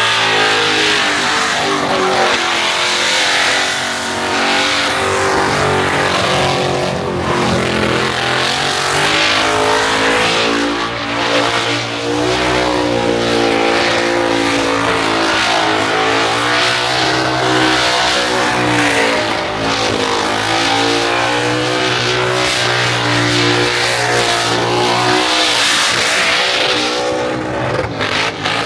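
Car engine held at high revs for a long stretch, the pitch wavering up and down, over a continuous hiss of tyre noise. This is typical of a burnout.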